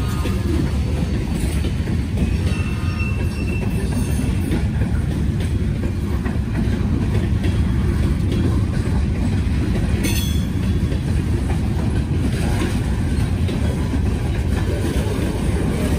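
Freight train rolling past, its wheels rumbling steadily over the rails, with a brief high wheel squeal about three seconds in.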